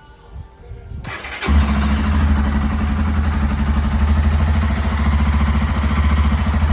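Honda XRE 300's single-cylinder four-stroke engine starting after sitting unused for four days: it catches about a second and a half in, then idles steadily.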